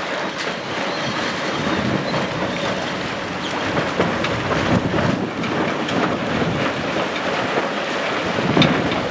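Wind buffeting the microphone over the rush of water along a sailboat's hull under way: a steady noisy rush with a few light knocks.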